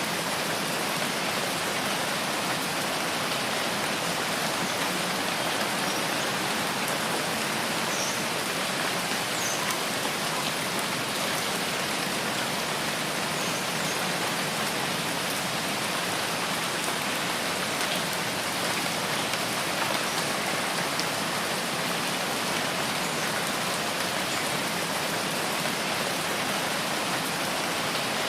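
Steady rain falling in a rainforest: a dense, even hiss without breaks or changes.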